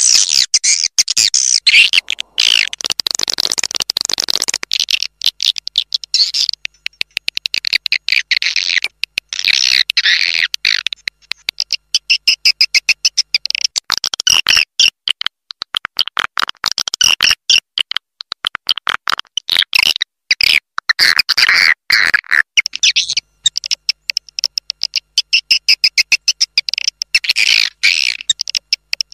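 Recorded swiftlet calls: a continuous, dense stream of rapid chirps, twitters and clicks with only brief gaps. It is a swiftlet roosting lure call, played to draw swiftlets in to roost.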